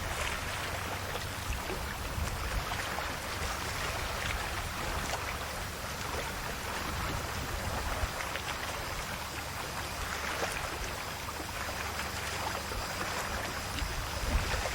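Calm sea waves washing gently onto the shore, a steady wash that swells and eases softly.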